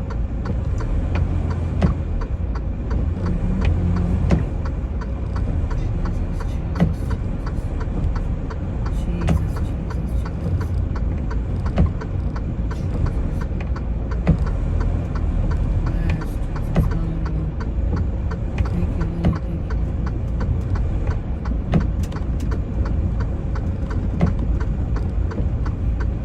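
Semi truck's diesel engine running steadily, heard from inside the cab, with scattered light clicks and knocks.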